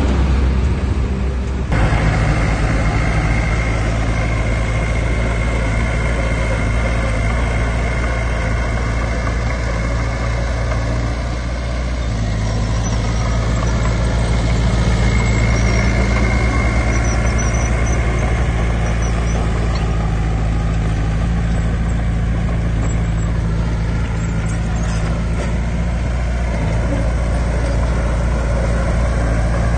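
Diesel engine of heavy earthmoving machinery running steadily, with a steady high whine above it. The sound changes abruptly about two seconds in.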